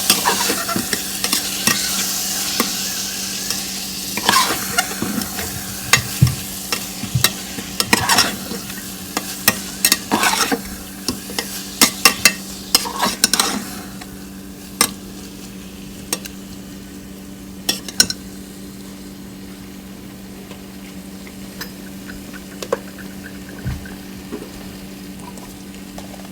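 Chopped tomatoes and ginger garlic paste sizzling in hot oil in a pressure cooker pan, with a spoon clicking and scraping against the metal as they are stirred. About halfway through, the sizzle dies down and the stirring thins to a few scattered clinks.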